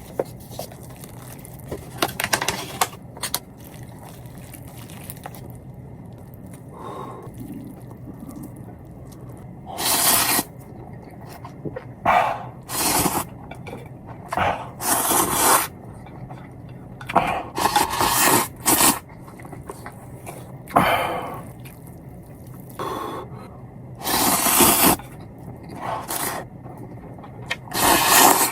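Ramen noodles being slurped: a dozen or so loud, hissing slurps of about a second each, with quieter pauses between.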